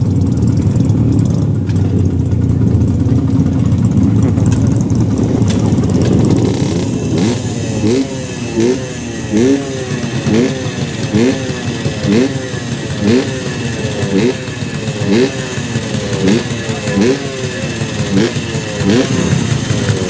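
An engine running steadily. From about seven seconds in, a repeating swooping sound joins it, falling and rising in pitch about once a second.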